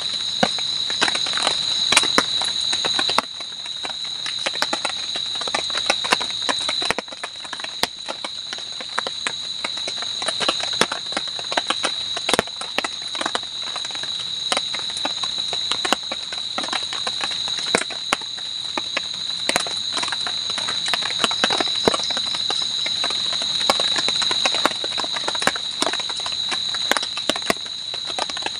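Night insects chirring in one steady high pitch, with sharp clicks and crackles scattered over it.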